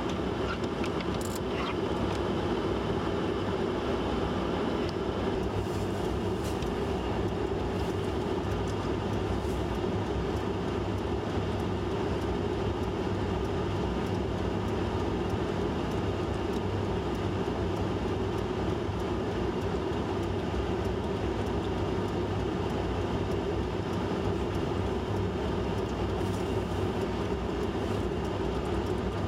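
Steady rumble of a vehicle running, unchanging throughout.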